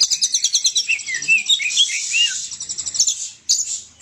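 Oriental magpie-robin (kacer) singing a loud, fast, varied song: rapid runs of repeated notes mixed with short arched whistles. The song breaks off briefly about three seconds in, then resumes in short bursts.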